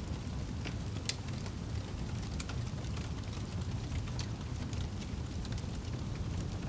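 Wood fire crackling over a low, steady rumble: irregular sharp pops and snaps, the strongest about a second in and again about four seconds in.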